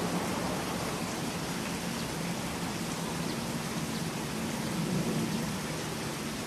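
Steady, even background hiss with a faint low hum underneath, with no distinct events.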